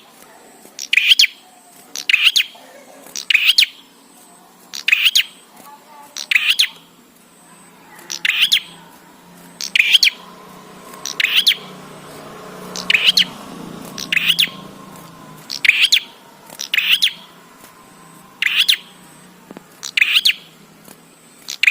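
A prenjak songbird repeating short, sharp chattering call phrases, one about every one and a half to two seconds, used as a lure or master call to get other prenjak calling.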